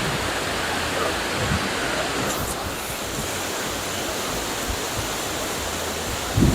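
Rushing water: a steady, even rush of falling or flowing water that does not let up.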